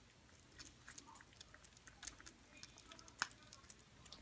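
Kittens eating dry kibble: faint, irregular small crunches and clicks of the pieces, with one sharper click a little after three seconds in.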